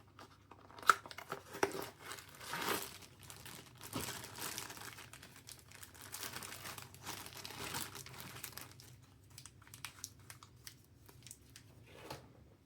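Crinkling and rustling of plastic packaging or film being handled, with a sharp click about a second in; the crackling is busiest for the first two-thirds, then thins to sparse crackles.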